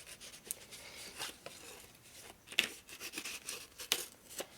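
Hands handling a new engine gasket and its packaging: light rustling with a few sharp small clicks.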